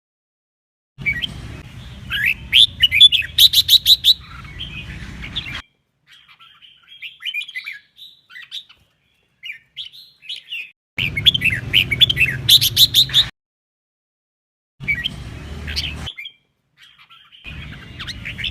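Red-whiskered bulbul singing its 'double-voice' song: loud, fast, bending whistled phrases with quick trills. The song comes in several bursts that start and stop abruptly, with stretches of silence between them and a fainter passage in the middle.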